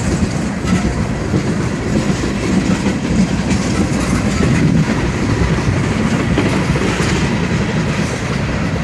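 Freight train cars rolling past at close range: a loud, steady rumble with the wheels clattering on the rails.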